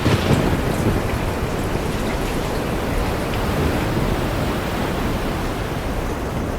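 Steady rain falling in a forest, an even hiss of many drops with no pauses. A brief louder, deeper swell comes right at the start.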